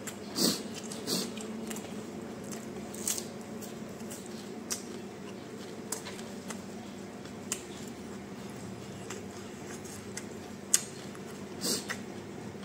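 A person chewing food with the mouth closed: irregular wet smacks and crunchy bites, about eight in all, over a steady low hum.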